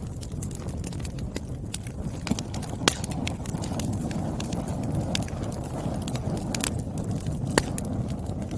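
Firewood burning, crackling with irregular sharp pops over a steady low rumble, with a louder pop about three seconds in and another near the end.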